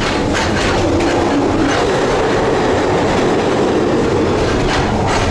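Passenger train running along the track, heard from inside the carriage: a steady loud rumble with occasional sharp clatters of the wheels over the rails.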